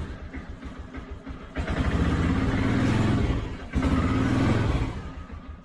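A small car's engine running and rising twice under throttle, the engine pulling strongly on a freshly fitted battery. A car door shuts at the very end.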